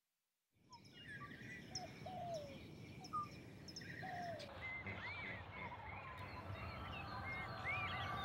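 Silence for about half a second, then an outdoor ambience comes in: a steady hiss with many birds chirping and calling in short rising and falling whistles.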